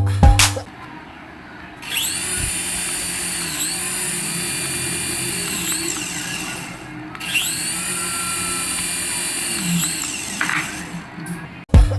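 A small electric toy motor whines at high pitch. It spins up, runs steadily for about four seconds and winds down, then does the same again for about three seconds.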